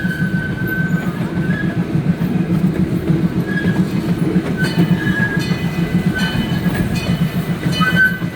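Zoo ride train running, heard from aboard a passenger car: a steady low rumble of the cars on the track, with short high-pitched tones recurring every second or so.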